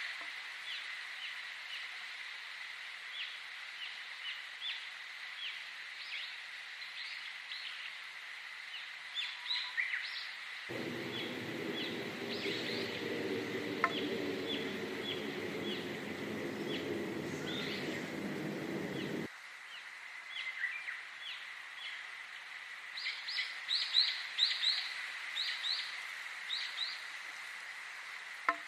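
Many small birds chirping, short quick calls repeated throughout and thickest near the end, over a steady high tone. Between about 11 and 19 seconds a layer of rushing noise with a low hum starts and stops abruptly.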